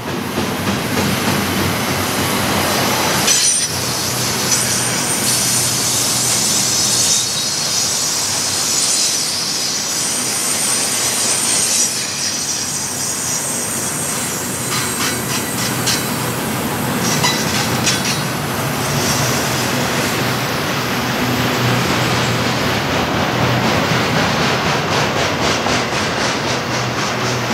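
A double-stack intermodal container train rolls past with a steady noise of steel wheels on rail. A high wheel squeal is held for several seconds in the first half. A quick run of wheel clicks comes a little past the middle.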